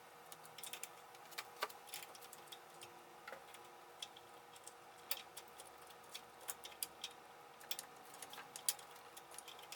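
Irregular light clicks and taps of hand tools and small metal parts being handled during engine reassembly, a few every second, over a faint steady hum.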